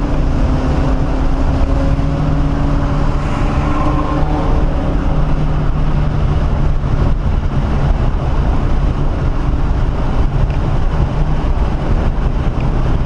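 1997 SVT Cobra Mustang's 4.6-litre V8 running hard at track speed, heard from inside the cabin over road noise. The engine note drifts in pitch as it revs and eases.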